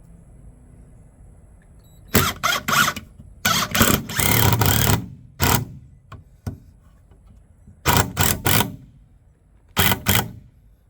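Cordless drill driving a screw into wood in short pulls of the trigger: a cluster of quick bursts, one longer run of about a second and a half, then two more short clusters near the end as the screw is sunk all the way down.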